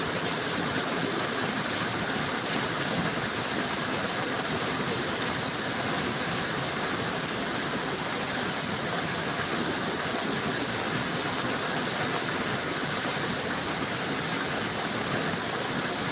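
Heavy rain falling, a steady even hiss of water with no breaks.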